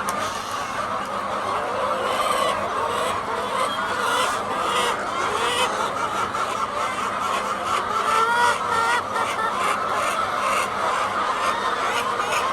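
A large flock of laying hens clucking and calling all at once, a steady dense chorus, with single louder calls standing out now and then.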